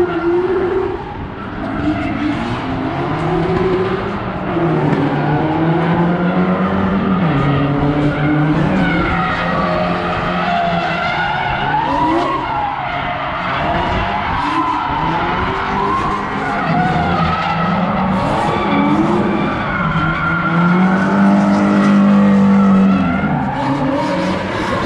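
Drift car's engine revving hard, its pitch climbing and dropping again and again as the throttle is worked through a drift, over tyres squealing and skidding on the track.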